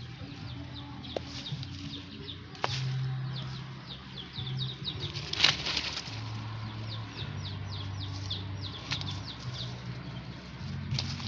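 Birds chirping in rapid runs of short, high, falling chirps, several a second, over a low steady hum, with a few sharp clicks.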